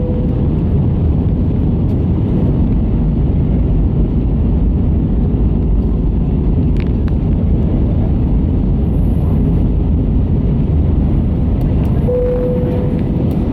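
Steady rumble and rush of an Airbus A320 in flight, heard from inside the passenger cabin, with a faint steady tone near the start and again near the end.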